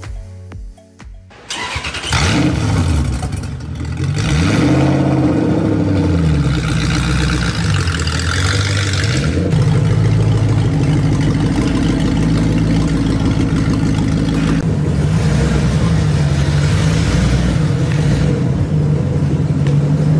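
Engine of a homemade Lamborghini V12 Vision GT replica starting about two seconds in, then revved again and again, its pitch rising and falling in repeated swells.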